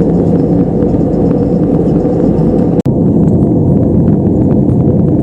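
Steady cabin noise of an Airbus A320-214 in flight, the rush of airflow and its CFM56 engines, heavy in the low end. It cuts out for an instant about three seconds in.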